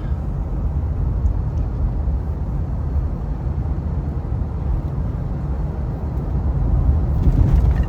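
Steady engine and road rumble heard from inside the cab of a moving truck.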